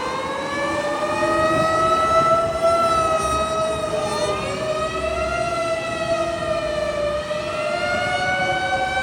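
Sirens of several Japanese fire engines on an emergency run, wailing at once, each slowly rising and falling in pitch so the tones overlap and cross.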